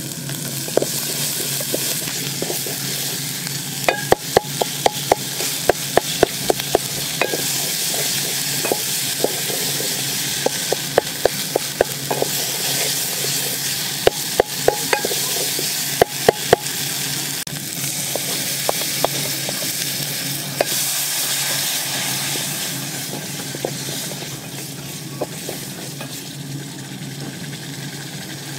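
Bottle-gourd peel and shrimp paste sizzling as it fries in a metal pot, with a wooden spatula stirring it. Between about 4 and 17 seconds in, there are quick runs of taps as the spatula knocks and scrapes against the pot.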